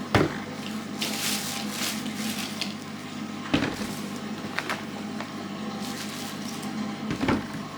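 A few sharp knocks and clatters of household objects being handled, about four in all, over a steady low hum.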